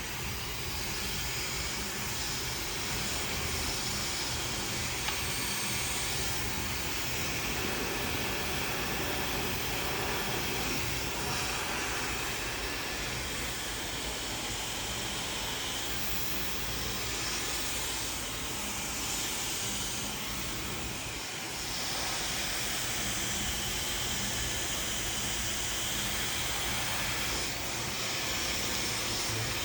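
Handheld hair dryer blowing steadily, a dense rushing of air over a faint motor hum, with small shifts in level as it is worked through the hair.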